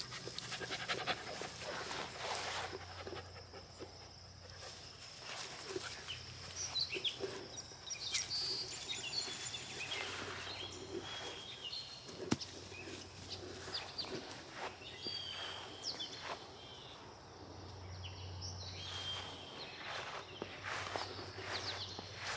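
Mini Australian Shepherd panting steadily while moving over the ground, with short bird chirps now and then.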